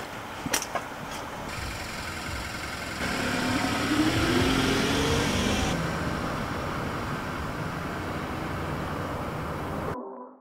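A car engine accelerating, its pitch rising for a couple of seconds, over steady road noise that cuts off suddenly near the end. A couple of sharp clicks come just before it starts.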